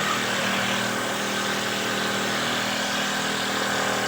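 Handmade wooden dowel-making machine running: a steady motor hum with an even whir over it.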